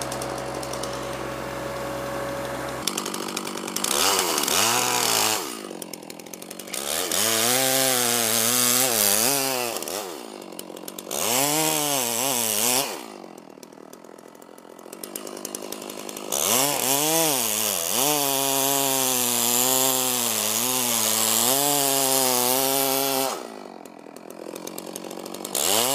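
Chainsaw revving up to cut oak wood five times, the longest cut about six seconds, dropping back between cuts. A steady low engine hum runs beneath at the start and stops about three seconds in.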